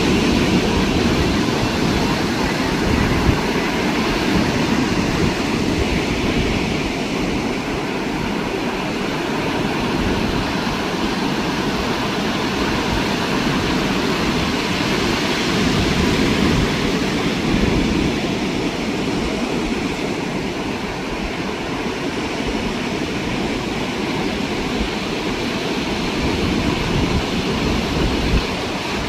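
Ocean surf breaking and washing on a sandy beach: a continuous wash that swells and eases slightly.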